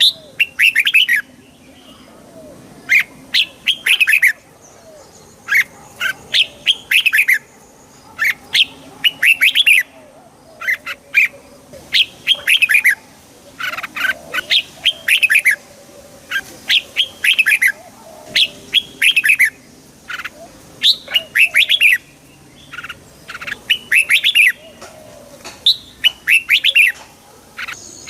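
Red-whiskered bulbul singing: short, bright phrases of quick whistled notes, repeated every second or two.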